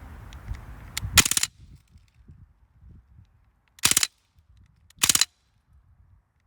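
Umarex Strike Force CO2 BB gun firing three short rapid-fire bursts, each a quick string of shots about a third of a second long, with the BBs hitting the target. The bursts come about a second in, near the middle, and a second later.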